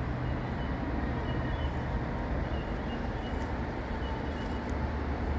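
Steady low rumble of vehicle noise with no clear changes, with a few faint short high chirps over it.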